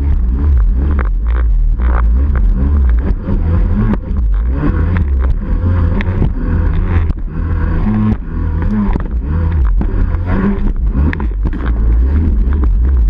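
Yamaha 701 two-stroke twin (62T/61X, home-ported, aftermarket Riva pipe) in a WaveBlaster running loud, its revs rising and falling, with heavy low rumble and rattly clicks.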